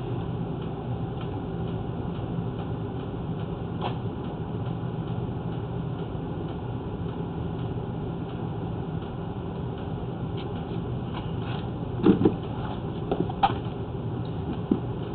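Steady low machine hum, with a few short knocks near the end.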